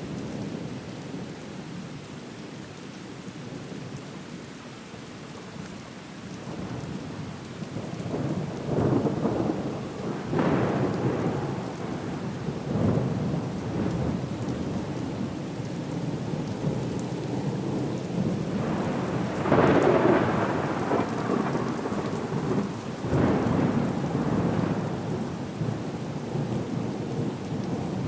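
Steady rain with a storm's thunder rolling in repeated rumbling swells, building from about eight seconds in and loudest about two-thirds of the way through.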